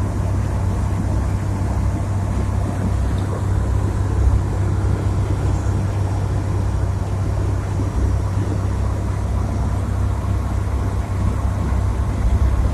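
A Volvo B20A four-cylinder engine with a Weber 32/36 DGV carburettor, heard from inside the car's cabin while cruising at a steady speed. There is a low, even engine drone mixed with road and wind noise.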